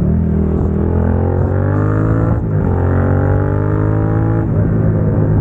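Suzuki SV650's V-twin engine through a Dominator GP exhaust, accelerating through the gears: the engine note climbs, drops at an upshift about two seconds in, climbs again, and drops at another shift near the end.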